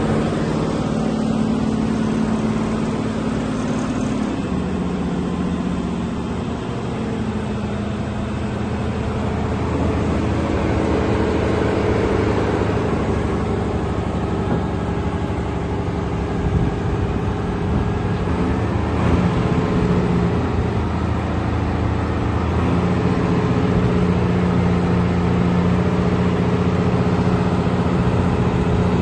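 Diesel engine of a Volvo BM 6x6 articulated dump truck running steadily, its engine speed rising and falling several times.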